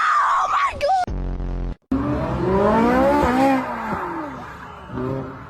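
Car tyres squealing, then an engine revving hard. After a sudden cut, a car accelerates with its engine pitch rising, then fades away.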